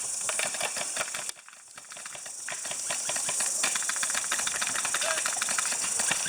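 Airsoft guns firing, heard as dense rapid clicking over a steady high hiss. The sound drops away suddenly about a second in, then picks up again.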